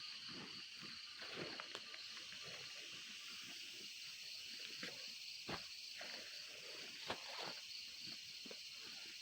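Steady chorus of insects, a high pulsing buzz, over scattered rustles and a few sharp clicks.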